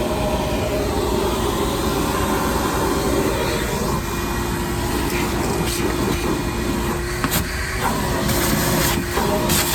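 Shop vacuum running steadily: a motor hum over rushing air, its pitch dropping slightly about four seconds in, with a few brief knocks and rattles in the last few seconds.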